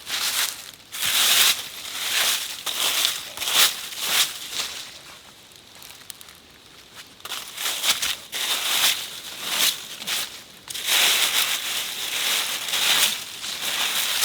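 Irregular rustling and crunching of dry leaf litter, in uneven bursts with a quieter stretch near the middle, as of something moving through it.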